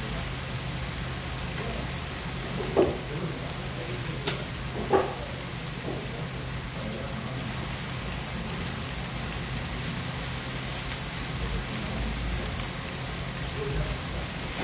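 Spicy marinated chicken and cabbage sizzling steadily on a hot dakgalbi griddle pan, an even frying hiss. A few short knocks sound about three and five seconds in.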